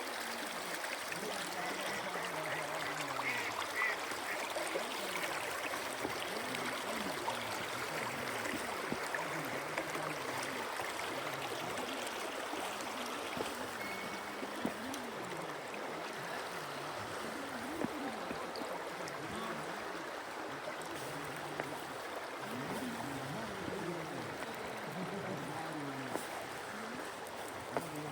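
Steady rushing of a flowing stream, with faint, indistinct voices underneath.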